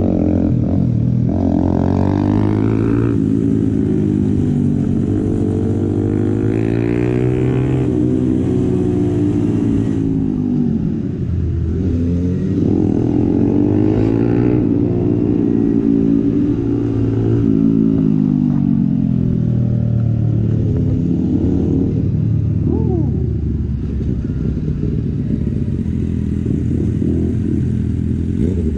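Suzuki GSX-R 750's inline-four engine pulling and easing off again and again while riding, its pitch climbing and falling about five times. A steady low rumble of wind on the microphone runs underneath.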